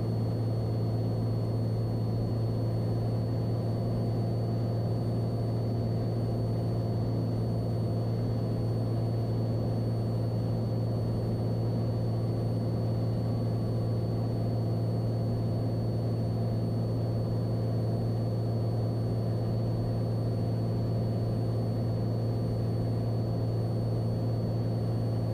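Cessna 182's engine and propeller droning steadily in flight, with a faint thin high whine running above the drone.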